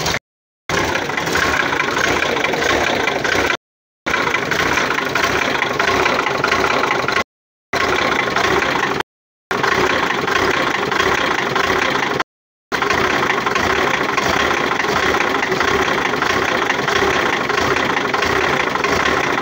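GAZ-4301 truck's GAZ-542 diesel engine idling with a hard, rough running note and a knock whose cause the owner can't place. The sound cuts out completely for a moment several times.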